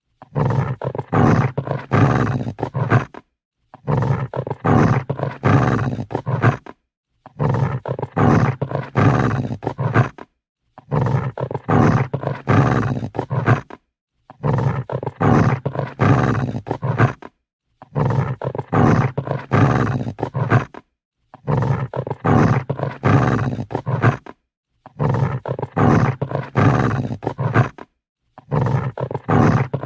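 Angry dog growling: a rough, pulsing growl about three seconds long, repeated over and over with a short silence between each.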